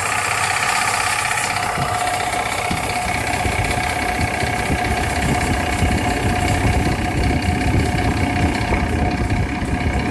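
2001 GMC Sierra's LS V8 engine running with the AC compressor engaged, a steady fast rattle coming from the compressor area, almost like a lifter tapping. The owner suspects a bad AC belt tensioner, though the compressor internals or its clutch could also be the cause.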